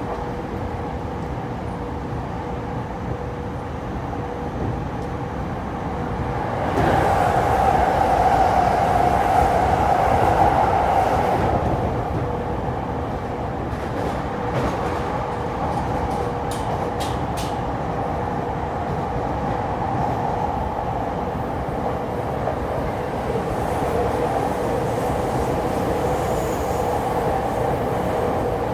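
JR East E231 series electric train running at speed, a steady rumble of wheels and motors with a faint constant tone. About seven seconds in it grows louder for several seconds, and a few sharp clicks come around the middle.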